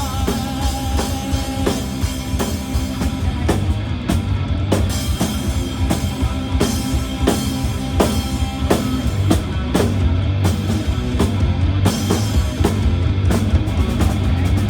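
Live rock band playing, the drum kit loudest with a steady beat of kick and snare over bass guitar and electric guitar, with no singing.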